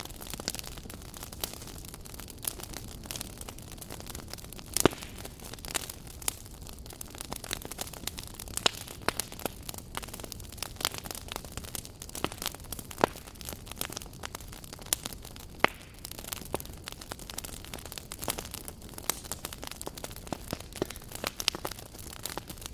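Wood fire burning in a fireplace: irregular sharp crackles and pops over a low steady rumble, with one louder pop about five seconds in.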